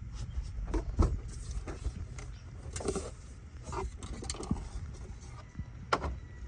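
Scattered light clicks, knocks and rustling of hands handling parts and tools in a car's engine bay, over a low steady background rumble.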